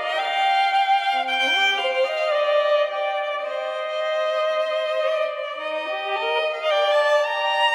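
Background music played on bowed strings, a violin carrying a melody of held notes with short rising runs of notes about a second apart from the start and again near the end.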